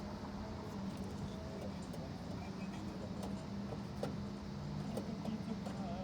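Steady machine hum holding one low pitch, with scattered light clicks and faint wavering higher sounds over it.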